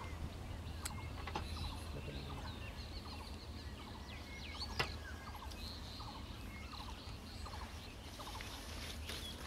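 Birds chirping and calling in many short, scattered notes over a low, steady rumble, with one sharp click about five seconds in.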